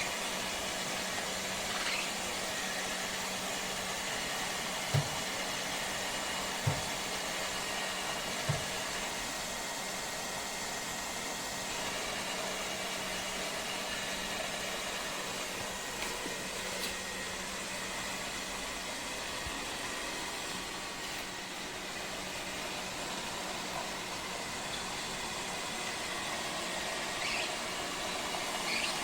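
Lefant M210 Pro robot vacuum running: a steady whirring hiss of motor and suction with a constant low hum, and three short low knocks a few seconds in.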